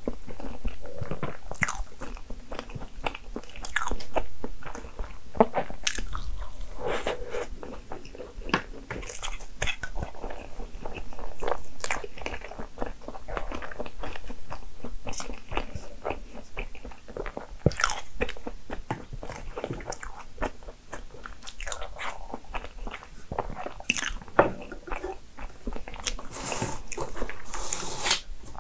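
Close-miked eating: bites and chewing of a layered crepe cake with fresh cream, a steady run of irregular small clicks and bites.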